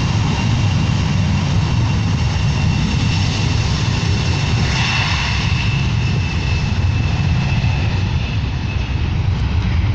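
Airplane engines running loud and steady at takeoff power: a low rumble under a high whine that swells about five seconds in.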